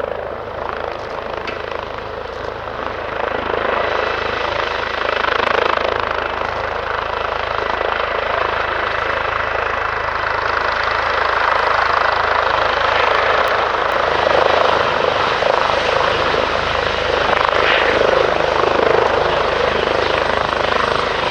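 Airbus Helicopters H145 running loud and steady: the rush of its twin turbine engines and rotors. It grows somewhat louder over the first few seconds, then holds level.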